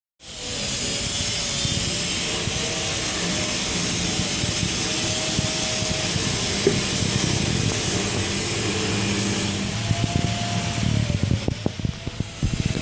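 Engine-room machinery running: a loud, steady din with a strong hiss over a low rumble and a faint wavering hum. From about ten seconds in, the hiss eases and irregular knocks and rattles come through.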